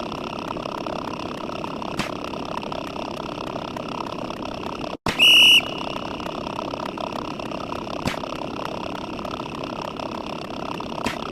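A steady noisy background with faint sharp clicks every few seconds. About five seconds in it cuts out for an instant, and a loud high electronic beep sounds for about half a second.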